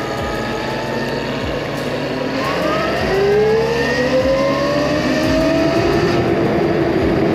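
A motor whine rising steadily in pitch from about two seconds in, as of a vehicle speeding up, over a steady rush of wind and road noise.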